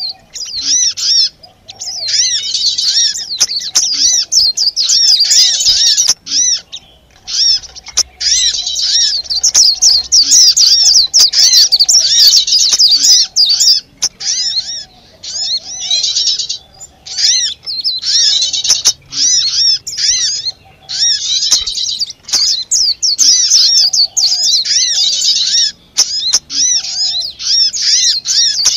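Bird-trapping lure recording of many small songbirds calling noisily together: dense, rapid high chirps in runs of a few seconds with short breaks between them.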